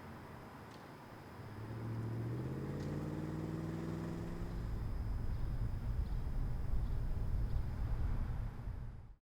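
Pickup truck driving: a pitched engine note that rises slowly for a few seconds, then gives way to a louder, growing low rumble that cuts off suddenly near the end.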